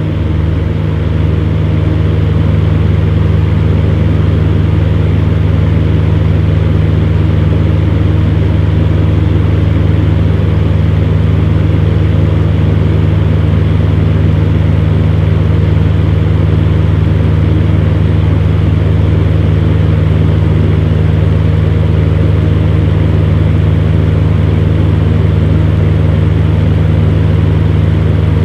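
Electric fan heater running steadily: a constant low hum with an even whirring rush of air over it.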